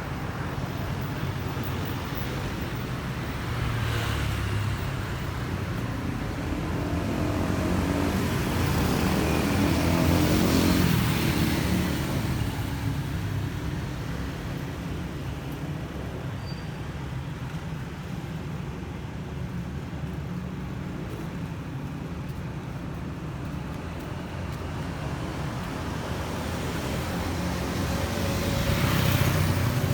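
Yamaha NMAX scooter's single-cylinder engine running under way, with road and traffic noise around it. It gets louder and rises in pitch about eight to twelve seconds in, and swells again near the end.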